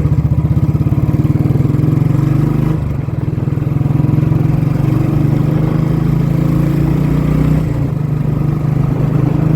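Royal Enfield Bullet 350's single-cylinder engine running on the move through a loud aftermarket exhaust: a fast pulsing thump at first that settles into a steady low drone, with a brief dip about three seconds in.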